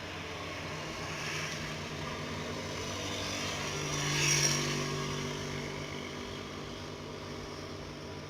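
Truck engine labouring up a gentle grade, getting louder as it approaches, loudest a little past halfway as it passes, then fading as it moves away.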